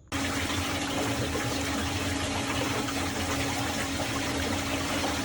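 Water rushing and swirling in a strong whirlpool vortex in a sink, with a steady machine hum beneath the rush. The sound cuts in abruptly just after the start.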